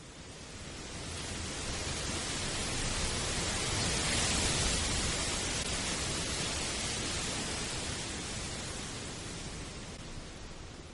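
A steady rushing hiss of noise that swells up gradually and then fades away, with no clear pitch or rhythm.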